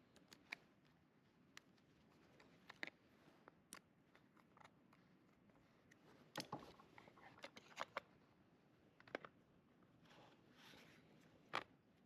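Near silence broken by several faint, scattered clicks and light taps of small hard parts being handled, the sharpest near the end.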